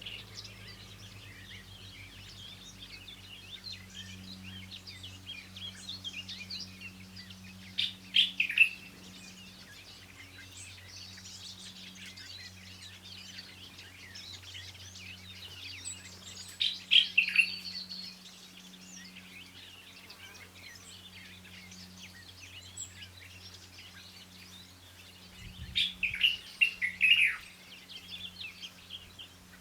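A chorus of songbirds chirping, with three louder bursts of quick, falling calls about eight seconds in, in the middle, and near the end, over a faint steady low hum.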